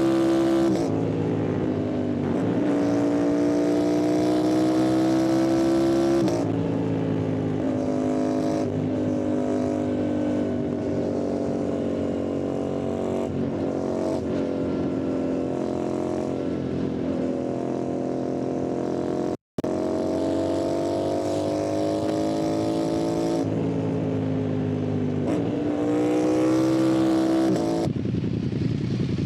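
Yamaha MT-07's parallel-twin engine and exhaust under way, pulling through the gears: the pitch climbs and then drops sharply at each shift, several times. The sound cuts out completely for an instant just past halfway.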